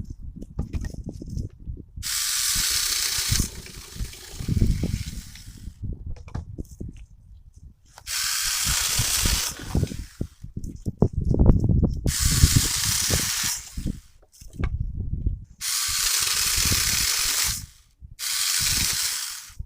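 Saker 20V cordless mini chainsaw running in five short bursts of one to two seconds, cutting through small pieces of wood, with low knocks and rustling from handling the saw and wood between the cuts.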